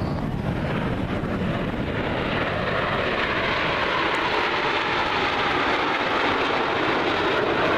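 Aermacchi MB-339 jet engine noise from a display pass overhead: a steady rushing jet sound that grows a little louder as it goes.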